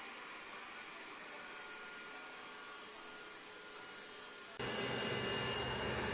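Dreame robot vacuum cleaner running with a steady whir and thin high whine. About four and a half seconds in, the sound cuts abruptly to a louder, lower hum.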